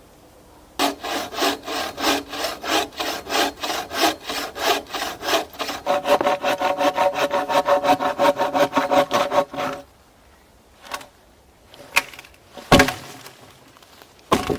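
Hand saw cutting through wood in steady back-and-forth strokes, quickening about six seconds in and stopping after about nine seconds. A few separate knocks follow near the end.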